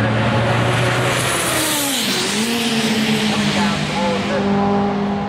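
Racing car engines running hard, one car passing close by about two seconds in, its engine note swelling and then dropping in pitch as it goes away, with other engines running on steadily.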